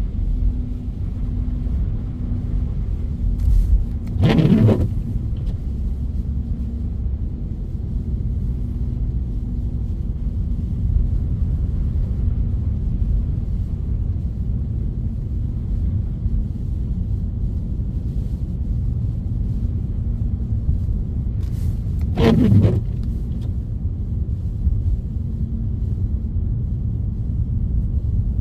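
A car driving, with a steady low road rumble. Twice there is a brief whoosh that slides down in pitch, once about four seconds in and again near twenty-two seconds.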